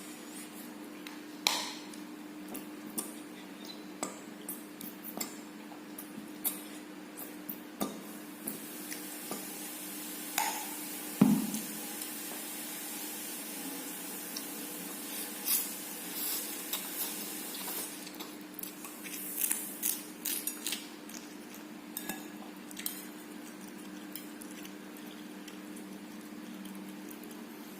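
A fork or spoon clicking and scraping against a plate, with wet squishy sounds of eating spicy fried instant noodles. A steady low hum runs underneath, and the loudest knock comes about eleven seconds in.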